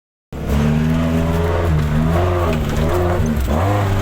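A vehicle engine running under load, its pitch repeatedly rising and falling as the throttle changes. It starts abruptly a moment in.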